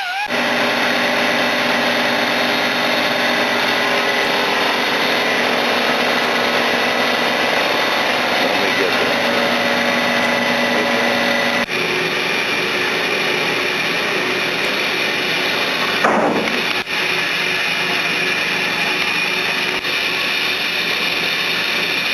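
A power tool or shop machine running steadily, a dense hiss with several steady tones. The tones shift about 12 seconds in, and a short falling sweep comes about 16 seconds in.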